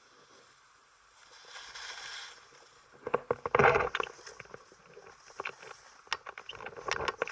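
Irregular scraping and crunching of a downhill run over rough ground, with scattered clicks. A soft swishing rush comes about a second and a half in, and the loudest crunching burst comes a little after three seconds.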